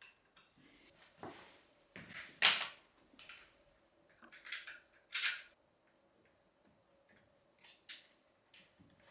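Parts of a CXWCX bike repair stand being handled and fitted together during assembly: scattered knocks, clacks and short scrapes, the loudest about two and a half seconds in and again about five seconds in.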